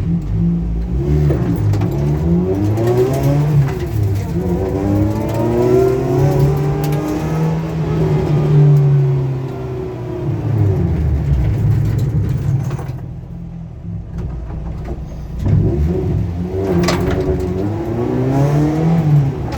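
Ford Fiesta ST150 rally car's 2.0-litre four-cylinder engine, with a straight-cut gearbox, accelerating hard through the gears, its pitch rising and dropping at each shift. Near the end it eases off and then pulls again, with one short sharp crack.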